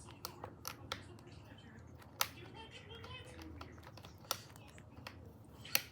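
Scattered sharp clicks and knocks of lawn mower parts being handled and fitted together during assembly, about seven in all, the loudest coming about two seconds in, past four seconds and near the end.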